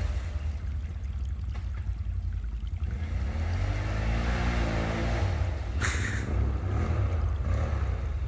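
ATV engine running in deep mud, its revs rising and falling a few times as the stuck machine is worked. A brief sharp hiss or splash about six seconds in.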